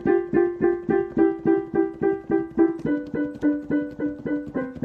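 Piano-like keyboard music: a single note struck over and over, about three times a second, stepping down to a lower note about three seconds in.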